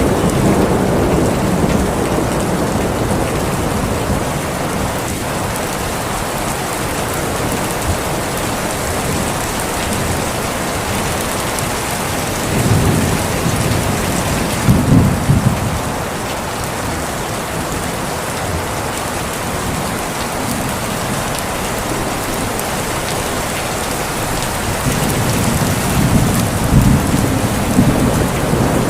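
Steady heavy rain with rolls of thunder: low rumbles swell about twelve seconds in, again around fifteen seconds, and a longer roll near the end.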